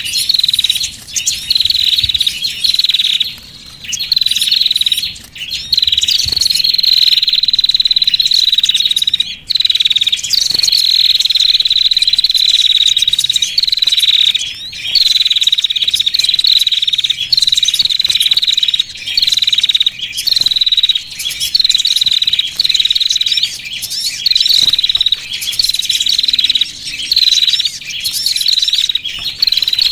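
Small-bird lure recording (sogon lure call): loud, high-pitched chirping calls repeated about once a second, each sliding slightly down in pitch, over continuous high twittering.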